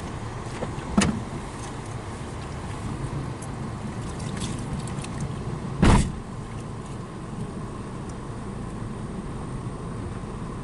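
A car rolling slowly with a steady low rumble, a loose front part of the car dragging underneath. Two sharp knocks, one about a second in and a louder one near six seconds.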